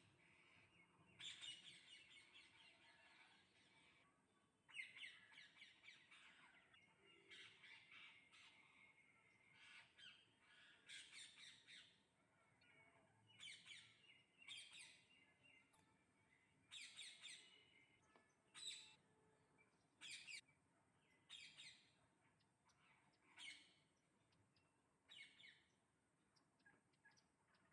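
Parrots calling, a long run of short, harsh squawks with a few seconds of denser chatter near the start.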